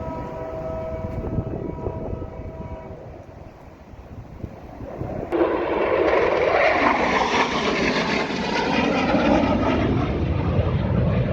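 Thunderbirds F-16 fighter jets flying over. A lower rumble with a few steady tones comes first; then, about five seconds in, loud jet noise comes in suddenly and stays loud.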